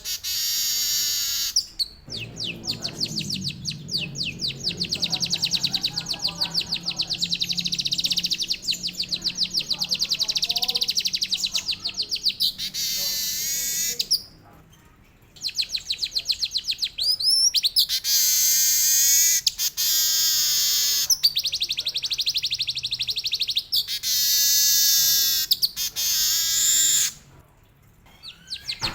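Manyar (weaver bird) singing long rolling trills of fast repeated high notes, mixed with canary-like phrases, in several extended bursts with two brief pauses.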